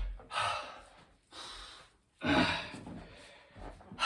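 A man breathing hard from exertion during a set of burpees: about four heavy, gasping breaths in and out.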